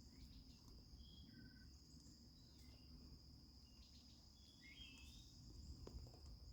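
Faint, steady high-pitched trilling of crickets in the evening, with a few brief faint chirps.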